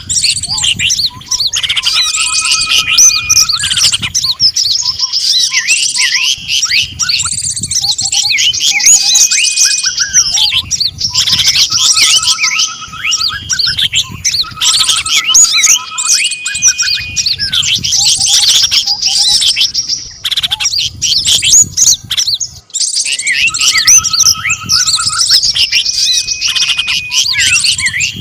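Bird-luring track of layered small songbird calls: dense overlapping chirps, trills and whistles. A set of steady whistled notes recurs about every eleven to twelve seconds, as in a looped mix.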